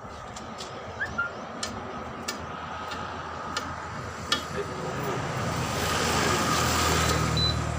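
A motor vehicle passing close by: engine hum and road noise swell to their loudest about six to seven seconds in, then begin to fade. Scattered sharp clicks and taps sound in the first half.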